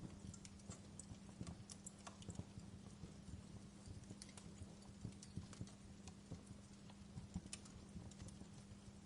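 Wood fire crackling softly, with irregular small pops and snaps over a faint hiss and a steady low hum.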